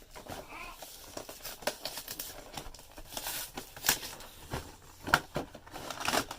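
Packaging of a Pokémon trading-card collection box crinkling and rustling as it is handled and opened, with irregular sharp crackles and clicks.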